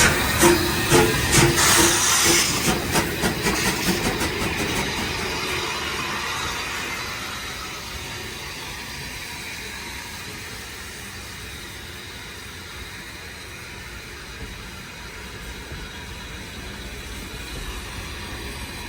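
Steam locomotive working, with hissing steam and rhythmic exhaust beats, a few a second. The beats fade away over the first several seconds, leaving a quieter steady rumble.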